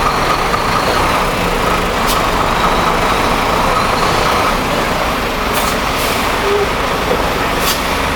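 Heavy truck's diesel engine running at low speed, a steady loud drone, with a few short sharp hisses about two, five and a half, six and nearly eight seconds in.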